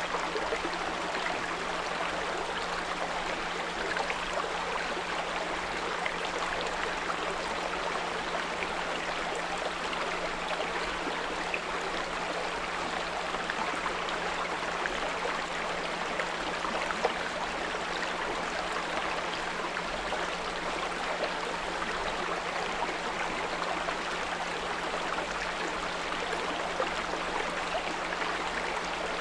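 Small brook babbling steadily, with a continuous low 174 Hz pure tone under the water sound.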